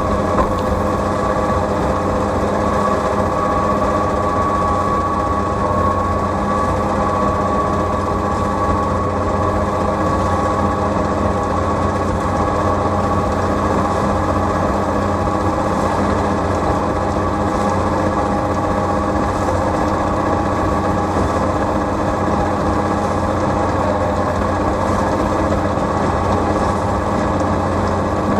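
Tractor engine running steadily, with a steady high whine over its drone.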